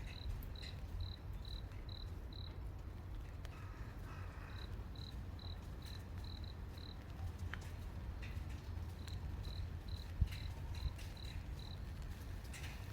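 A cricket chirping at night: short high chirps on one pitch, about two a second, in runs of six or seven with brief pauses between. A low steady rumble lies underneath, with a few faint rustles and clicks.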